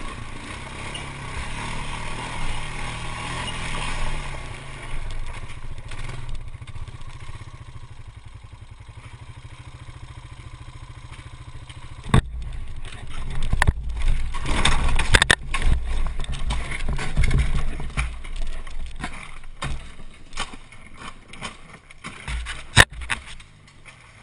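Motorcycle engines running and revving, with scraping and clattering and a sharp knock about halfway through and another near the end.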